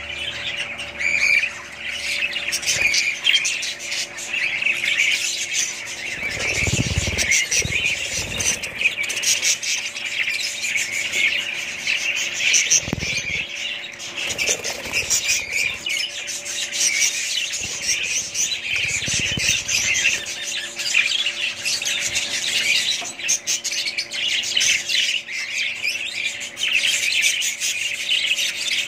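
A group of budgerigars chattering and squawking continuously in dense, high-pitched warbling, with a few dull low rumbles in between.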